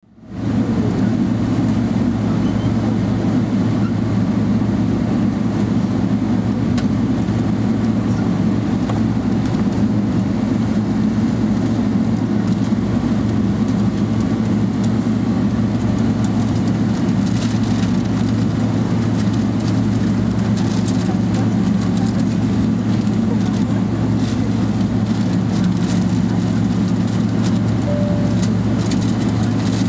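Boeing 777-300ER's GE90 jet engines making a steady, even low drone with no rise or fall.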